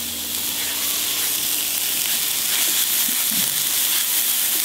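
Grated carrot and chopped onion sizzling in oil in a frying pan, stirred with a silicone spatula: a steady, high frying hiss.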